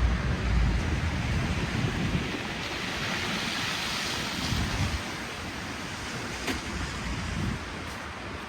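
Rushing hiss of traffic on snowy, slushy city streets, swelling about three to four seconds in and then easing off, as a vehicle's low rumble dies away at the start.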